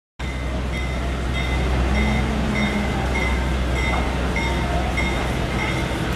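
Passenger train moving slowly along a station platform: a steady low rumble that starts suddenly about a quarter second in, with short high tones repeating roughly every half second.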